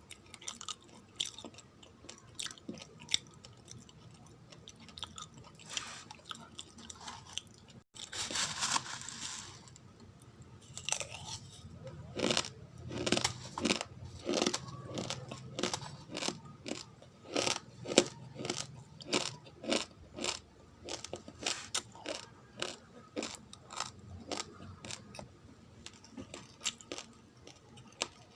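Uncooked rice grains being chewed close to the microphone: a long run of crisp crunches and cracks, coming thickest in the second half. A short rustle about eight seconds in.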